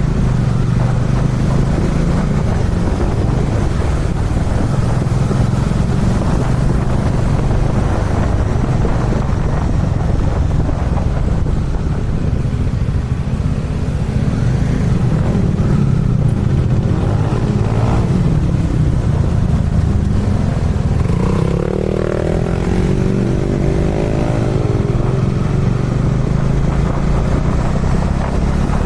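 Kawasaki Dominar 400 single-cylinder motorcycle engine running steadily under way. A brief wavering tone rises over it about three-quarters through.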